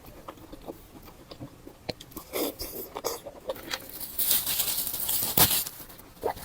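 Close-miked eating sounds: wet chewing and small bites with scattered clicks, then a louder, denser stretch of mouth noise about four seconds in that peaks around five and a half seconds.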